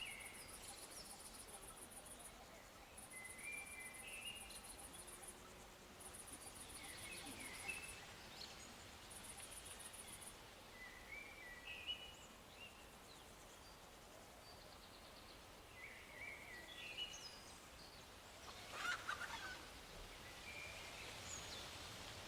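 Faint birds chirping in short repeated phrases every few seconds, with a very high pulsing trill that starts and stops several times in the first half.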